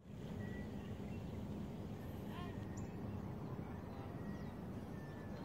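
Birds chirping and whistling in short, scattered calls over a steady low rumble.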